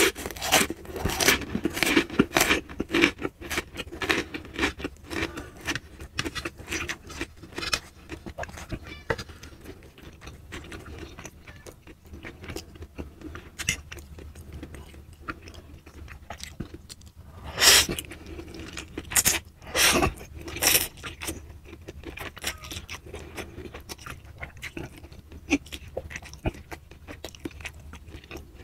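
Close-miked eating sounds: biting, crunching and chewing with wet mouth clicks. The food is fried instant noodles and oden. Busy, crisp bites in the first several seconds give way to softer, sparser chewing, with a few louder mouth noises about two thirds of the way through.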